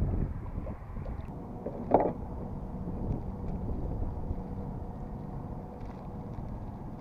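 Low rumble of wind buffeting the microphone over small water and kayak noises, with one sharp knock about two seconds in.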